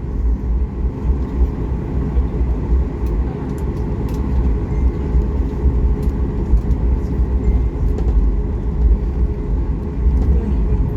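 Cabin noise of a Boeing 737 MAX 8-200 taxiing after landing: a steady low rumble from the idling CFM LEAP-1B engines and the wheels rolling on the taxiway, with a few faint clicks.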